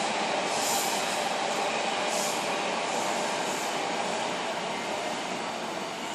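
A train running through on the rails, a steady rumble and rush of wheels with a few brief high hisses in the first half, then slowly fading as it draws away.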